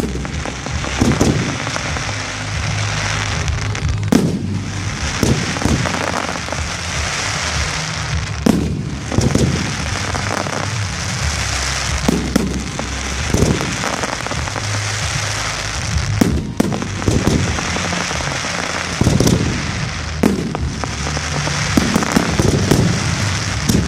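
Fireworks display: aerial shells bursting with sharp bangs every second or few, over continuous crackling and fizzing from the burning stars.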